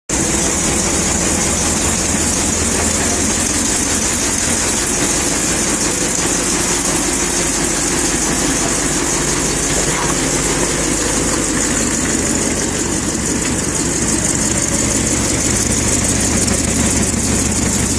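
Engine of a 1946 Dodge hot rod truck idling steadily.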